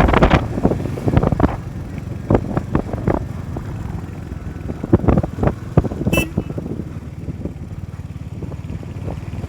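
Motorcycle engine running steadily on the move, with irregular thumps through the ride and a brief high-pitched beep about six seconds in.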